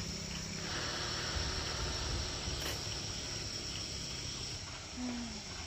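Insects chirring in a steady high-pitched drone over a low background rumble.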